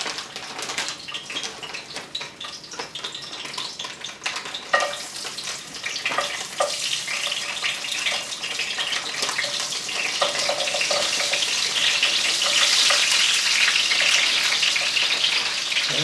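Breaded okra sizzling in hot vegetable oil in a cast iron skillet as pieces are tipped in from a bag a few at a time, with small knocks and rustles among the frying. The oil is hot enough to fry on contact, and the sizzle grows steadily louder as more okra goes in.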